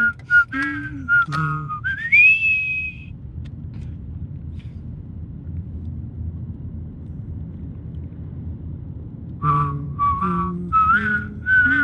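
One person singing and whistling at the same time: a low sung melody with the whistled tune far above it. A phrase ends with the whistle sliding up and holding for about a second, then several seconds of low rumbling noise, and the sung-and-whistled melody starts again near the end.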